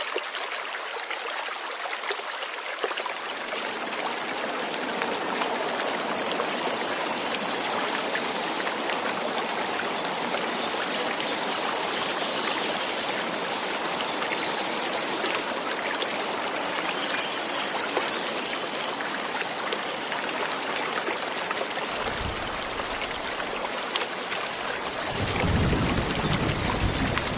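Steady light rain, an even hiss and patter of falling water. A low rumble comes in briefly near the end and then again more strongly, lifting the level slightly.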